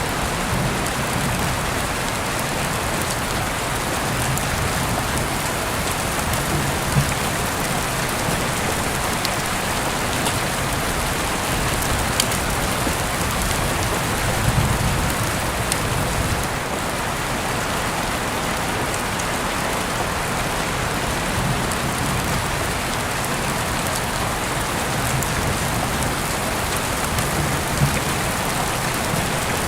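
Steady rain falling, a dense even hiss, with scattered sharp ticks and a few louder brief pops.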